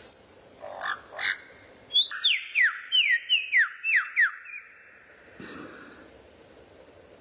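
A songbird calling: two low downward-sliding notes, then a quick run of about eight clear whistled notes, each sliding sharply downward, at roughly three a second.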